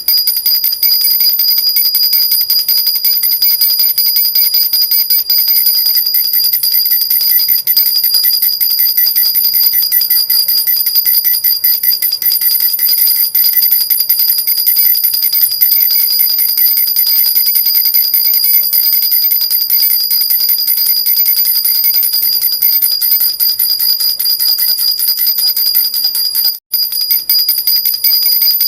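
Metal baby rattle (jhunjhuna) shaken continuously, a steady high ringing jingle with several held bell-like tones over a fast shimmer. It breaks off for an instant about 26 seconds in, then carries on.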